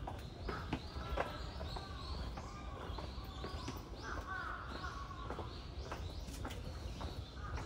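Birds calling repeatedly, with a few sharp taps, over steady outdoor background noise.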